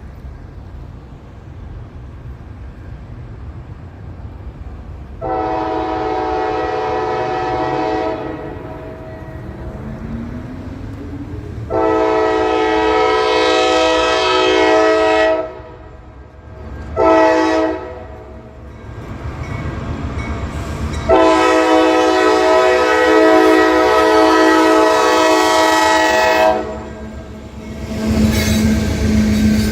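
A diesel locomotive's multi-chime air horn blows two long blasts, one short and one long: the standard grade-crossing signal. Under the horn, the rumble of the approaching train builds, and near the end the locomotive's engine and the train roll close by.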